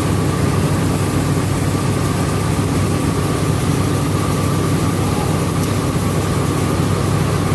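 Rice milling machine running steadily with a loud, even drone and a faint constant whine over it.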